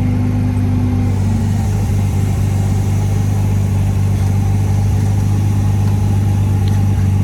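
A vehicle engine idling steadily, with a constant low hum. A higher tone in it fades out about a second and a half in.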